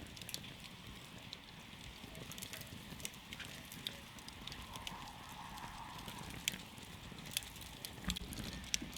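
Wood campfire crackling, with irregular small snaps over a steady hiss and a few sharper pops in the second half.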